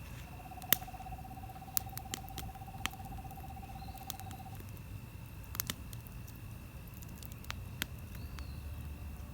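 Campfire wood crackling with scattered sharp pops, the loudest about a second in. A steady trill runs over it from the start to about four and a half seconds in, with a faint high steady tone throughout.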